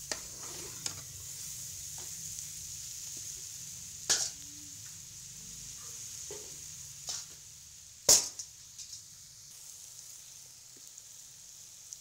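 Sliced onions and bitter gourd sizzling in oil in a metal pot, stirred with a metal spatula that knocks and scrapes against the pot several times, loudest about eight seconds in. The sizzle grows fainter in the last few seconds.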